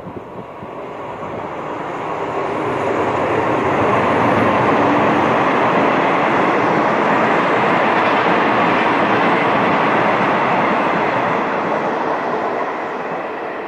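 Passenger train of the State Railway of Thailand passing close by, its locomotive and coaches rolling along the track. The noise builds over the first few seconds, holds loud while the coaches go past, and fades near the end.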